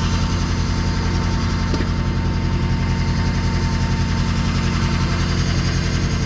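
Truck engine idling steadily, with a thin steady whine running above it.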